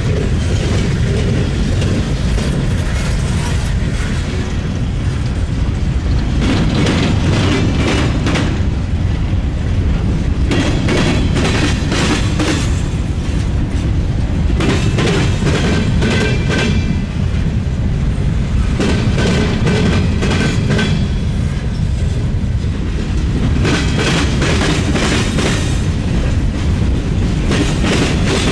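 Freight train cars rolling over a railroad diamond crossing: a steady low rumble broken by clusters of clattering wheel clicks every four to five seconds as each car's wheels cross the diamond.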